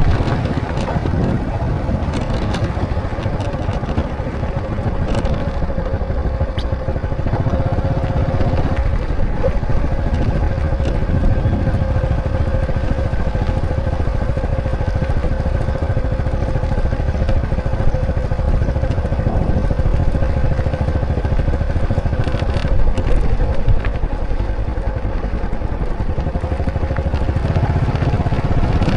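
Motorcycle engine running steadily while riding, with a continuous low rumble and a steady hum that holds level throughout.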